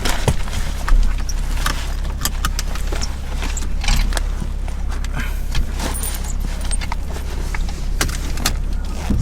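Inside a car: a steady low engine and road rumble with many small clicks and rattles scattered through it.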